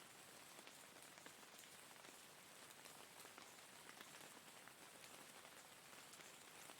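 Faint steady rain: a hiss of rainfall with many small drops ticking on a surface.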